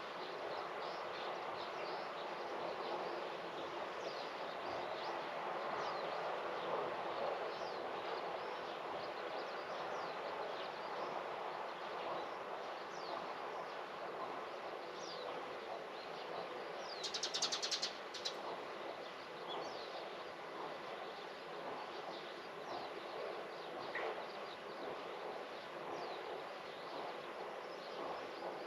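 Small birds chirping here and there over a steady outdoor background hush, with one short, rapid, louder trill about two-thirds of the way through.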